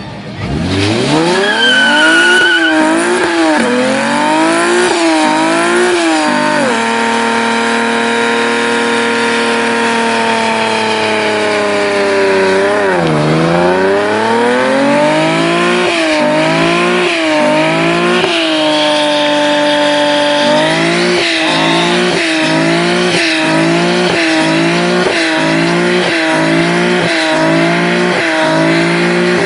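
V6 Camaro engine revving hard. It climbs, holds high and steady for about five seconds, drops away, then is blipped up and down over and over in quick revs.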